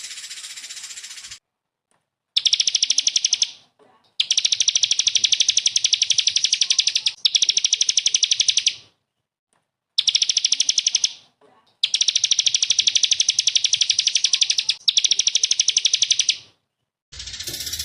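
A small songbird singing rapid, high-pitched trills, each a fast machine-gun string of notes lasting one to three seconds, repeated with short pauses: the 'tembakan' (shooting) song type. A different, noisier sound begins just before the end.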